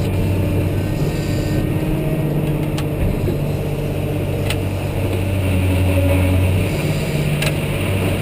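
Caterpillar 988H wheel loader's C18 diesel engine running steadily at about 1900 RPM on the throttle lock, heard from inside the cab, with a few faint clicks.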